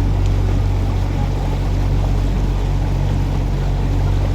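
Canal tour boat's inboard motor running steadily, a constant low hum under the splash and rush of water.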